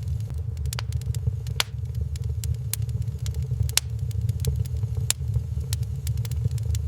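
Wood fire crackling in a fireplace: sharp, irregular pops and snaps, several a second, over a steady low rumble.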